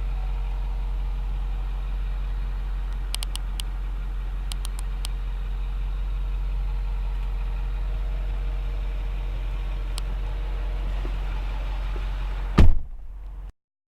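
Ford F-550 Super Duty crane truck's engine idling steadily, with a few sharp clicks. Near the end comes a loud thump, and the low rumble drops away after it.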